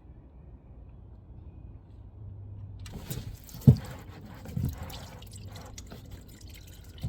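Used engine oil draining from the sump plug hole and splashing into a drain pan, starting about three seconds in. Two sharp knocks come soon after, the first the loudest sound.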